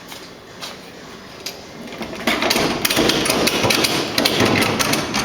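Aircraft jack being worked as the plane is lowered: a dense run of rapid metallic clicks and knocks. It starts about two seconds in and lasts roughly three seconds.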